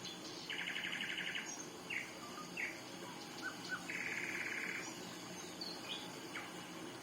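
Songbirds singing: two rapid trills of about a second each, one near the start and one about four seconds in, with short chirps in between.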